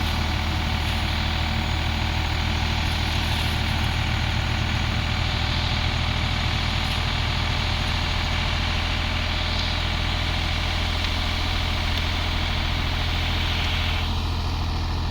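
Sonalika DI 745 III tractor's diesel engine running at a steady speed, with a faint higher tone joining in briefly near the end.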